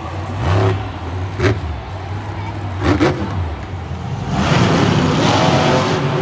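Monster truck engine revving in short blips, its pitch rising and falling, then running hard and loud from about four seconds in.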